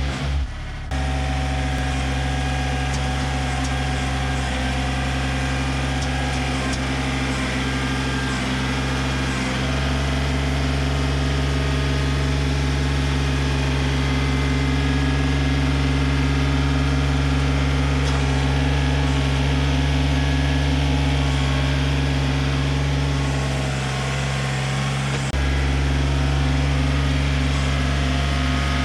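John Deere 955 compact tractor's three-cylinder diesel engine running steadily under work. It eases off briefly about 24 seconds in, then picks back up.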